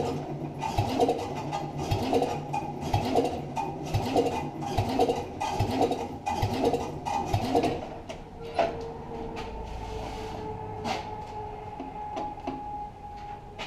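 The cold Tecumseh single-cylinder engine of a 1971 Sears Suburban 12 garden tractor is being cranked by its electric starter on a jump pack. It turns over slowly and unevenly, with a labouring whine and about one compression stroke every second. It is not firing, the sign of a hard cold start. About eight seconds in, the rhythm stops and gives way to a steadier mechanical hum.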